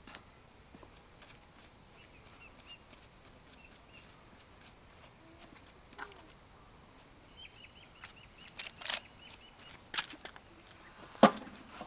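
Steady high insect buzzing, with two short runs of quick chirps. Several sharp knocks in the last few seconds, the loudest near the end.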